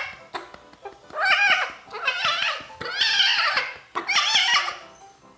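Kitten meowing loudly four times in a row, each a long wavering cry.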